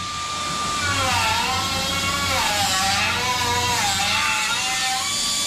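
Electric power tool motor whining as it works the repaired 22-inch alloy wheel. Its pitch dips and rises several times as it is pressed in and eased off, over a steady grinding hiss.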